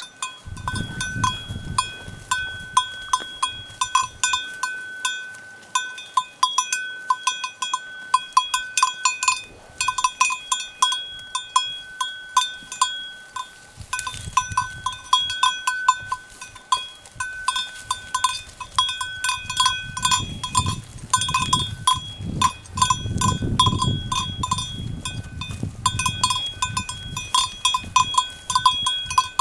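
A cowbell clanking irregularly, a few strikes a second, as the animal wearing it moves. A low rumble rises beneath it for a few seconds about two-thirds of the way through.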